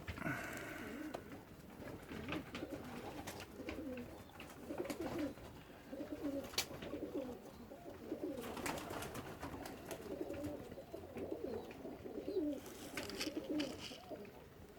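Baku pigeons cooing over and over, several low, wavering coos overlapping, with a few short sharp clicks among them.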